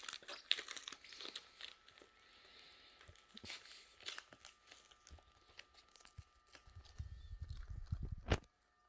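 Cockatoo tearing and crunching at a gift's wrapping with its beak: irregular crackling, crinkling and rips, with a few low thumps near the end and one sharp snap just before it stops.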